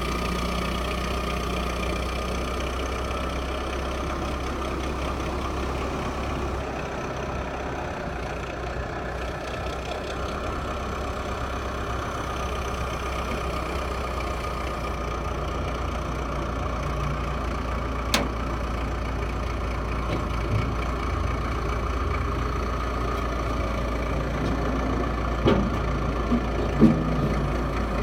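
Diesel engine idling steadily, with a single sharp click partway through and a few short knocks near the end.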